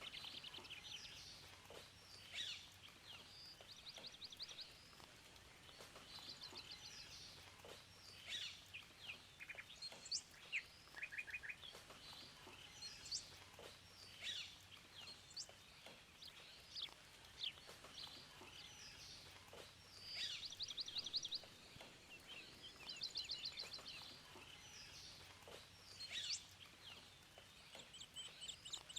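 Several songbirds chirping and calling, with quick high chips, sharp downward-sweeping notes and short rapid trills, overlapping and coming every second or so.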